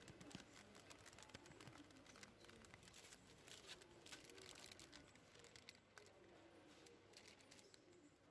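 Near silence: faint scattered clicks and light rustles, with a faint wavering murmur of background underneath.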